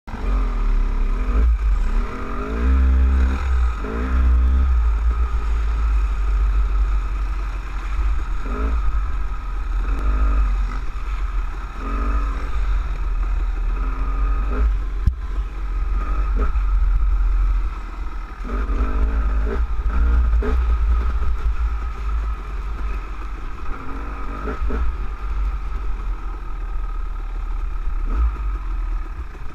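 Dirt bike engine heard from on the bike, its note rising and falling with the throttle over a deep rumble as it is ridden over rough wet ground. A single sharp knock comes about halfway through.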